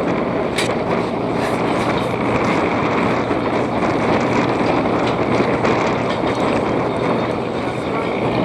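Light propeller plane's engine running as it taxis out to take off, a loud, steady noise without a clear pitch.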